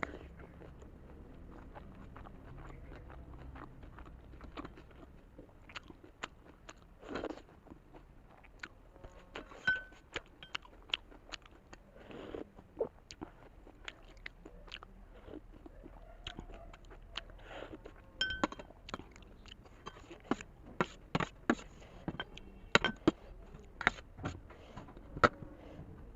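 A person chewing a mouthful of steamed momo dumpling close to the microphone, with many short, wet mouth clicks that come thicker from about nine seconds in.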